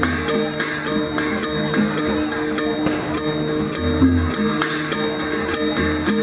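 Traditional Shan dance music playing a steady rhythm: a drum beats under sustained ringing gongs and regular cymbal strokes.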